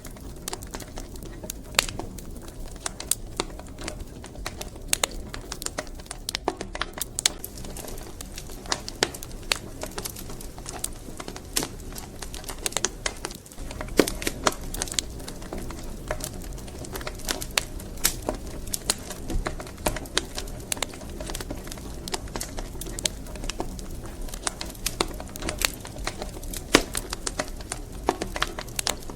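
Wood fire crackling in a fireplace: many irregular sharp pops and snaps over a steady low rush of burning.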